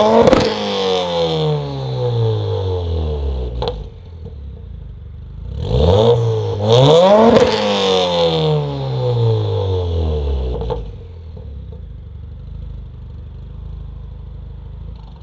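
2015 Subaru WRX's turbocharged flat-four engine, breathing through a non-resonated Remark 4-inch quad-exit catback exhaust with a J-pipe, coming down from a rev and settling to idle. It is revved once more about six seconds in, then drops back to a low, steady idle.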